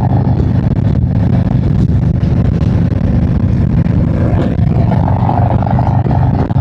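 Harley-Davidson motorcycle's V-twin engine running steadily under way, heard from the rider's seat.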